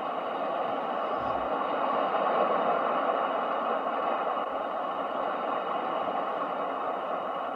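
Ocean surf for sleep sounds: a steady wash of noise that swells to a peak about two seconds in and then slowly eases off.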